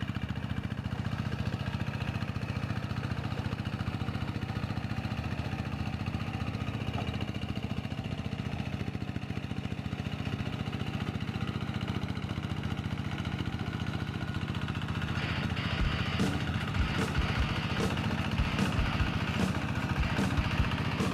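Rice-field plowing tractor's engine running steadily. About three-quarters of the way through it grows a little louder, joined by irregular clattering knocks.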